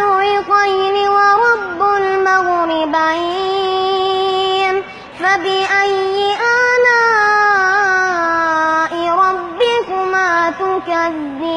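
A high voice chanting Quranic recitation in a melodic tajweed style, drawing out long held notes with ornamented turns, with a short breath break about five seconds in.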